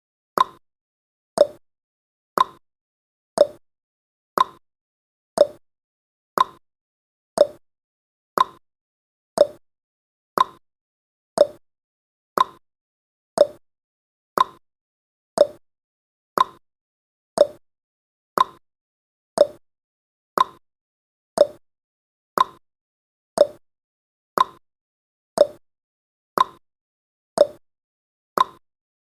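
Countdown timer's tick sound effect: a short, hollow click once every second, each dying away quickly, in an even steady rhythm.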